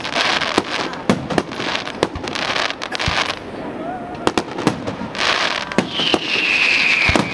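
Fireworks display: aerial shells bursting in quick succession with crackling between the bangs, easing briefly midway. Near the end a high whistle glides slowly downward over the bangs.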